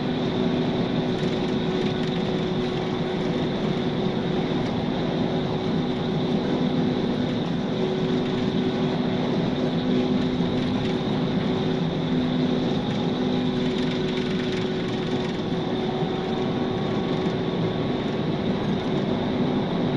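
Police car driving in pursuit: steady engine and road noise with a constant low hum and no change in pace.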